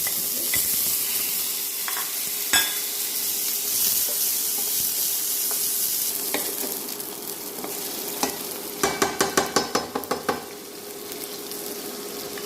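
Green chilies and tomatoes sizzling in hot oil and fried onion spice paste in a pan, stirred by a utensil. There is a knock about two and a half seconds in, and a quick run of about ten clatters of the utensil against the pan in the second half.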